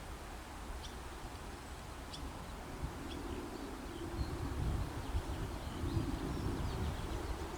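Birds chirping in short scattered calls over a low outdoor background rumble that grows a little louder in the second half.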